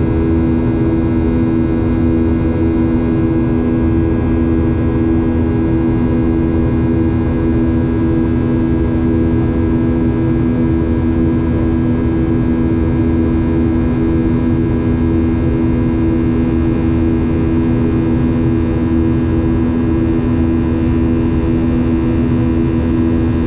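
Steady cabin noise inside a Boeing 737-800, its CFM56 turbofan engines running with an even hum of several steady tones over a low rumble, unchanging throughout.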